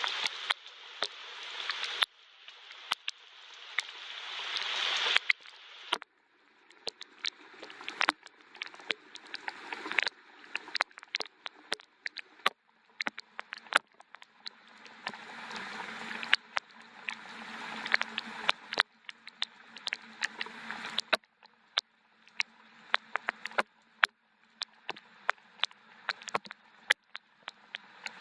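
Rain falling, with many sharp ticks of drops hitting a hard surface. The rain hiss swells and then drops away every couple of seconds, and a faint low hum comes in about halfway through.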